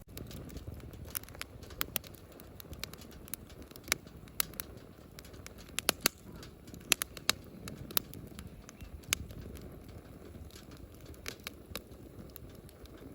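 Wood fire crackling, with irregular sharp pops and snaps over a low steady rush.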